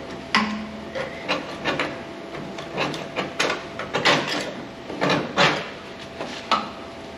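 Hand scraper rasping over the rusty sheet metal of a truck cab in short, irregular strokes, about a dozen in all.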